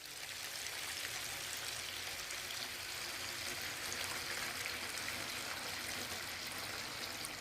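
Cartoon water-spray sound effect: a steady rushing hiss of spraying water that fades in at the start and fades out at the end.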